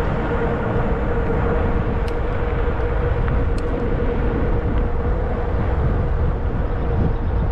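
Riding noise from a Zota Zephyr 20-inch fat-tire e-bike moving at speed: wind buffeting the microphone and tyre rumble, with one steady hum held at a constant pitch above it.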